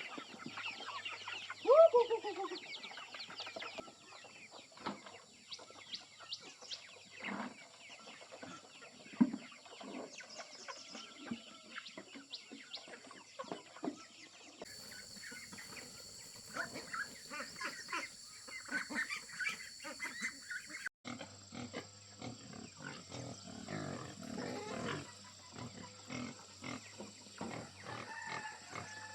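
Chickens clucking and squawking, loudest in the first few seconds, then scattered short clicks and rustles with occasional calls.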